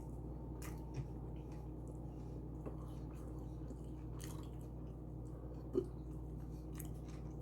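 Faint chewing and small wet mouth clicks of someone eating a tuna sub, over a steady low hum.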